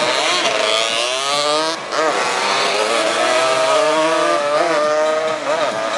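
Several 200 cc racing motorcycles' engines revving hard, their pitches rising and falling with throttle and gear changes, with a brief drop about two seconds in.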